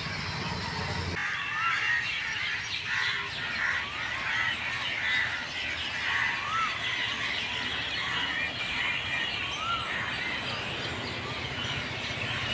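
A flock of birds calling together: a dense chatter of overlapping chirps and squawks, with one short arched call repeating every second or two. A low hum cuts off about a second in.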